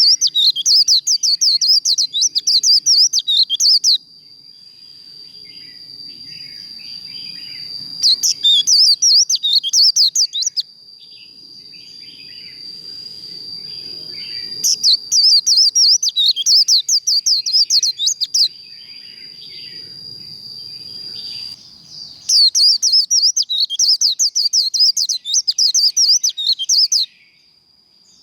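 White-eye (vành khuyên) singing its fast, high, twittering 'líu' warble in four bouts of a few seconds each, separated by short pauses.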